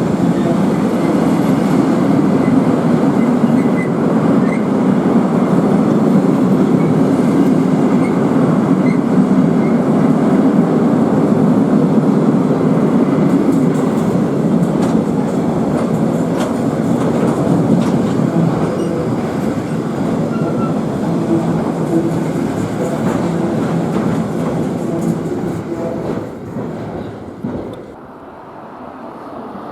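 A train running past on the line: a steady rumble of wheels on the rails with some clicking, dying away over the last few seconds.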